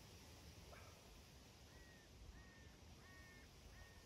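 Near silence, with a bird calling faintly four times, short clear calls evenly spaced in the second half.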